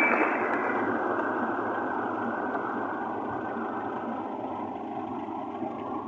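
Car in slow traffic, heard from inside: a steady hiss of engine and road noise with no distinct knocks or tones, slowly getting quieter.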